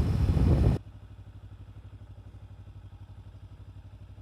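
Kawasaki Ninja 300's parallel-twin engine idling as a low, steady, quiet pulse. It is preceded by a loud rush of wind and engine noise that cuts off abruptly under a second in.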